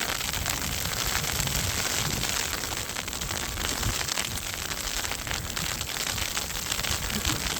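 Outdoor snowstorm noise: a steady hiss with faint irregular crackling.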